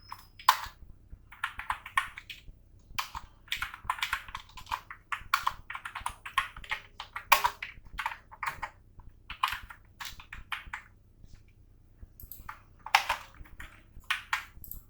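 Computer keyboard typing in quick runs of keystrokes, with a pause of about a second and a half near the end before a few more keys are struck.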